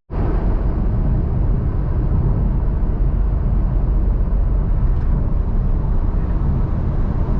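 Van driving at speed: steady engine and road rumble.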